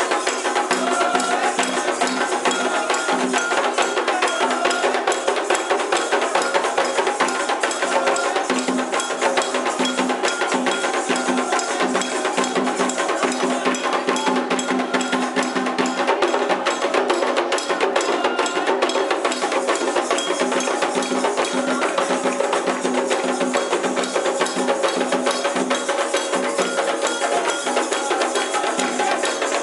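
Candomblé ceremonial percussion music: fast, steady drumming with a dense clicking beat played without pause.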